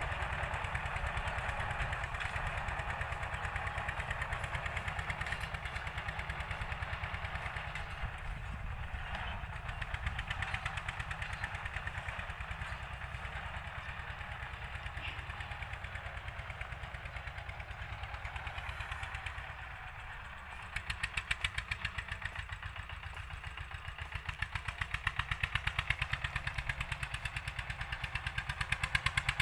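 Old Eicher tractor's diesel engine running under load while cultivating, with a steady rapid beat; it eases briefly about two-thirds of the way through, then comes back louder.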